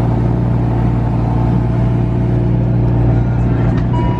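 Lamborghini engine running as the car drives, a steady drone at an even pitch.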